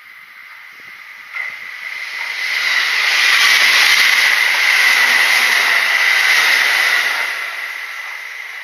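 Kintetsu electric train passing close by: the rumble of wheels on the rails builds up, is loudest for a few seconds in the middle, then fades as the train moves away.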